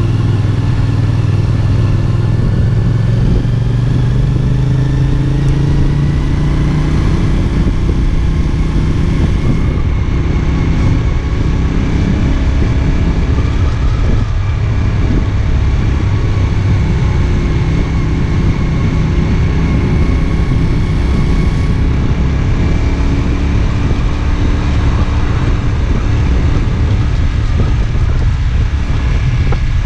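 CFMOTO 450SR S sport bike's parallel-twin engine running steadily on the move, with a strong low rumble under the engine note.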